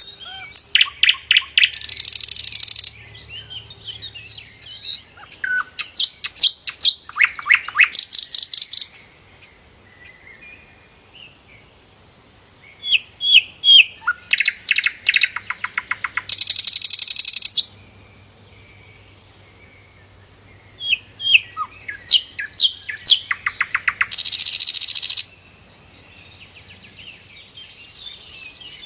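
Sikatan londo flycatcher singing in three bouts, each a run of quick, sharp, high chirps that ends in a harsh, buzzy rattle lasting about a second, with quieter pauses between bouts.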